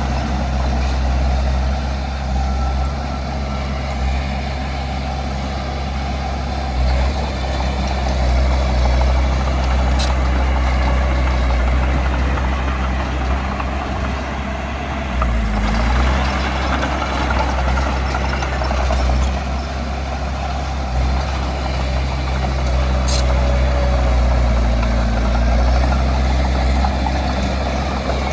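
Heavy diesel earthmoving machinery running steadily, a constant low engine drone, with two short sharp clicks, one about ten seconds in and one near the end.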